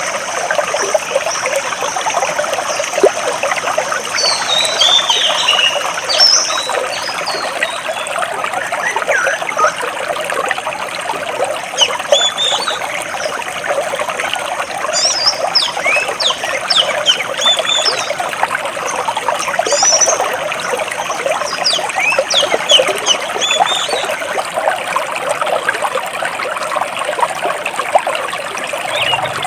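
Stream water running and trickling between large rocks, a steady splashing rush. Small birds chirp over it in short, high, quick notes, scattered through the whole stretch.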